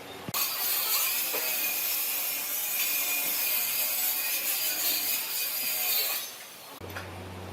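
A tool working wood with a steady scraping hiss that starts suddenly and fades out about six seconds later.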